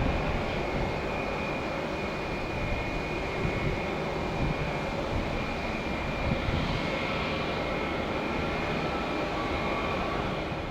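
Airbus A320 jet engines running steadily: a continuous high whine over a low rumble.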